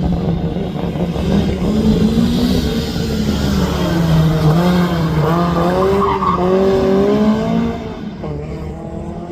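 Rally car engine running hard, its pitch repeatedly rising and falling, then dropping in level for the last second or so.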